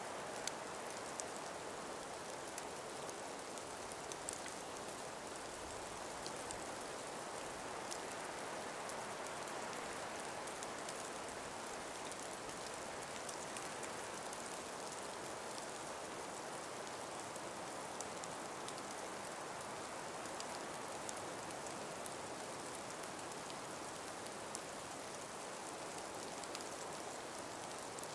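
Calm breeze through an ice- and snow-laden forest: a steady soft hiss with faint scattered ticks.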